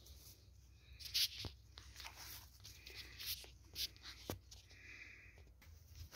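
Anatolian Shepherd puppy chewing and tearing at food, with irregular sharp clicks and short rasping tearing sounds.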